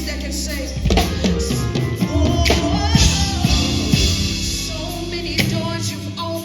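A woman singing live over a band with drum kit, amplified through a PA system.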